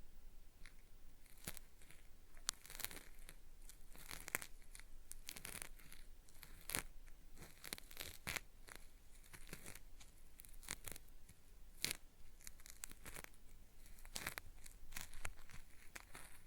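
Cotton swab scraping in the ear of a binaural microphone: a dry, gritty 'zari-zari' crackle of irregular short strokes, meant to sound like earwax being peeled away in an ear cleaning.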